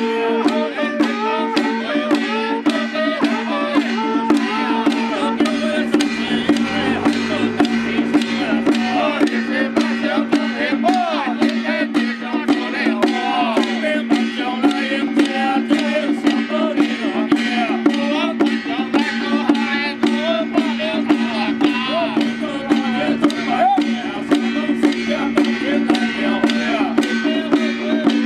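Traditional temple procession music: a wavering, ornamented melody over a steady held drone, with even percussion strokes about three a second.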